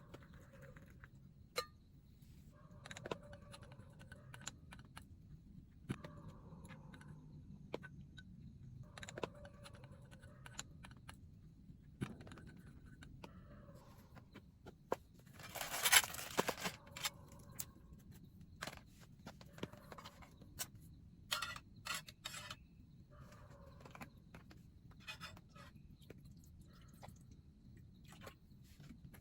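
Objects being handled at close range: scattered small clicks, clinks and scrapes, with one louder rustling scrape lasting about a second, a little past the middle.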